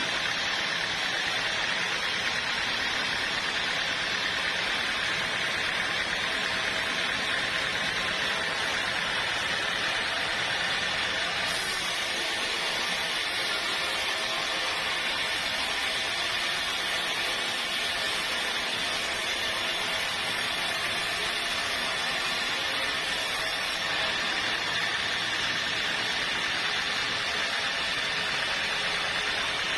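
Sawmill machinery running steadily with a faint whine, joined by a high hiss from about a third of the way in until about four-fifths through.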